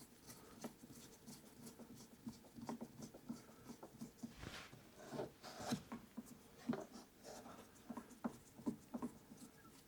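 Faint, irregular light clicks, taps and scraping of small metal hardware being handled and fitted by hand.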